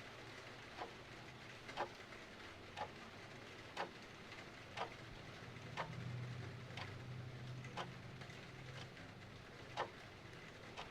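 Clock ticking about once a second over a steady hiss of rain. A low rumble swells and fades in the middle.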